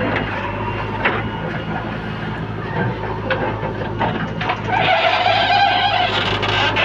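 A heavy diesel engine runs steadily, with a few sharp knocks. About five seconds in it gets louder and higher for a while.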